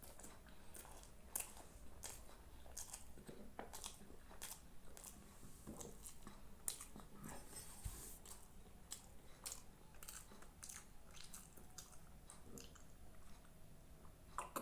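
A person chewing and biting food, with many short clicks and crunches at irregular intervals.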